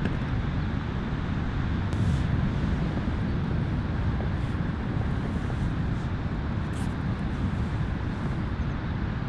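Steady beach ambience, a low, even wash of noise from the sea and wind.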